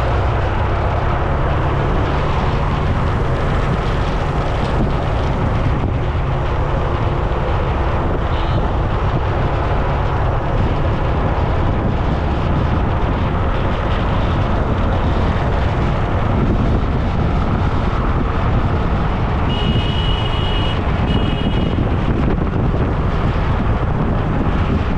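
Wind rushing over an action camera's microphone while riding along a road, with the steady rumble of road and traffic noise. Two short high beeps come about twenty seconds in.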